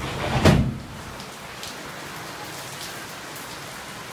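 Heavy rain falling steadily, a dense hiss with scattered drips ticking through it, broken about half a second in by a brief loud thump.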